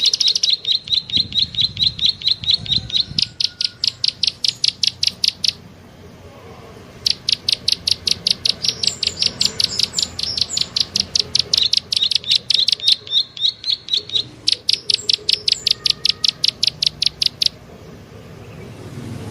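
Bird-lure recording of a small bird's 'klik-klik' call: rapid, evenly spaced sharp clicking notes, about six or seven a second, in three long runs with short pauses between them. The runs stop near the end.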